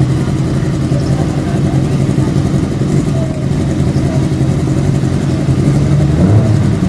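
Motorcycle engine in a go-kart running steadily at low revs, near idle, with a brief change in pitch about six seconds in.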